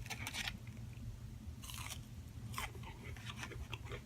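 Close-up chewing of a flaky croissant sandwich, with irregular soft crackles and crunches from the mouth.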